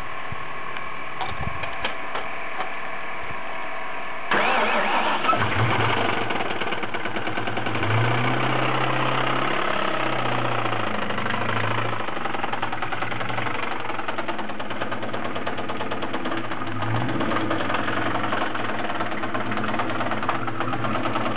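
1997 Mustang Cobra's supercharged 4.6-litre DOHC 4-valve V8 is cranked for about four seconds, then fires and runs with a rhythmic knock, a rod knock typical of a spun rod bearing.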